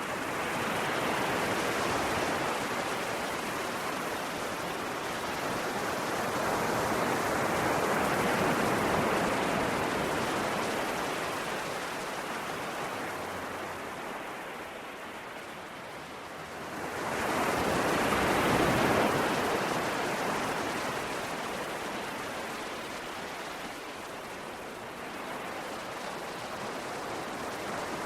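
Ocean waves washing in and breaking on the shore: a continuous rush of surf that slowly swells and fades, with a stronger wave surging in suddenly a little past halfway and then ebbing away.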